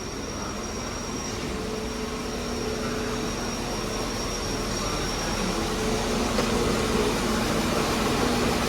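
Class 197 diesel multiple units standing with their engines running: a steady mechanical hum with a thin high whine and low held tones, gradually growing louder.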